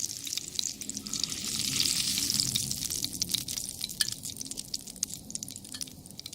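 Pork sizzling and popping in a cast-iron skillet, a dense crackling hiss that fades over the last few seconds and then cuts off.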